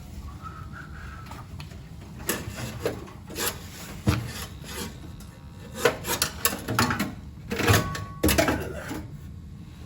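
Irregular knocks, scrapes and rubbing from hands and tools working on a gas boiler, over a steady low rumble. The loudest knocks come between about six and eight and a half seconds in.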